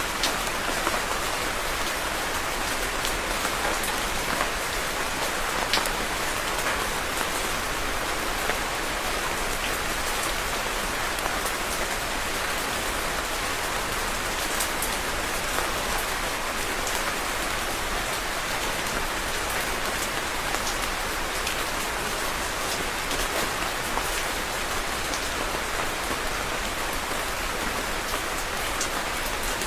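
Steady rain falling on a surface, a dense even hiss dotted with individual drop ticks.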